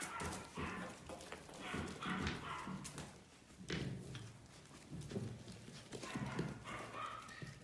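Biewer terrier puppies making short, irregular vocal sounds, with scuffling and small knocks mixed in.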